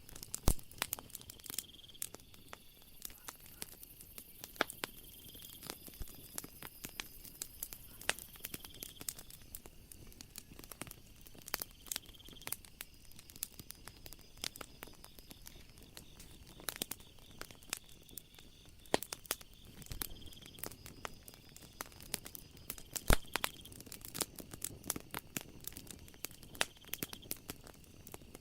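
Wood fire crackling, with irregular sharp pops and snaps over a soft hiss, two of them louder, one right at the start and one near the end. Behind it, a faint high night-insect trill swells and fades every few seconds.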